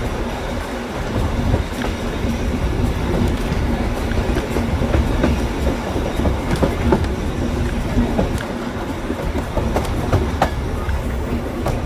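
Train running along the track: a steady rumble with irregular clicks of the wheels over the rail joints.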